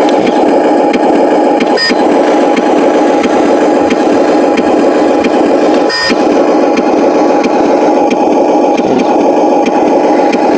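Huina 1501 RC Scania truck running with a steady, loud mechanical drone, briefly dipping about two seconds in and again about six seconds in.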